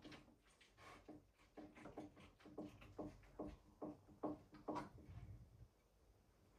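A faint, regular run of short light knocks or crunches, about two a second, growing louder and then stopping about five seconds in.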